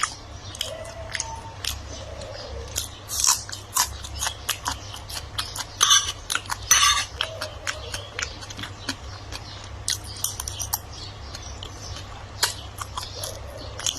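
A person chewing and biting food close to the microphone: a run of wet clicks with a few louder crunches about three seconds in and again around six to seven seconds in.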